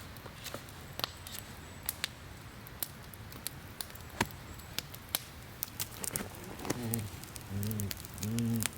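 Campfire crackling with scattered sharp pops. From about six seconds in come several short, low-pitched vocal sounds.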